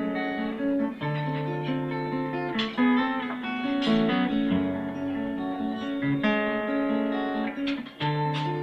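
Acoustic guitar playing an instrumental passage of picked notes over sustained bass notes, between sung verses of a song.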